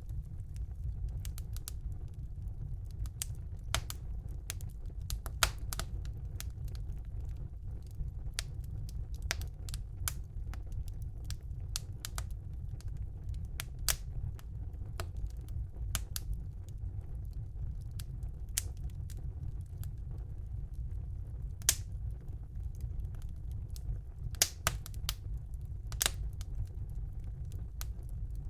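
Wood fire burning in a fireplace: irregular sharp crackles and pops over a steady low rumble of the flames, with a few louder pops in the second half.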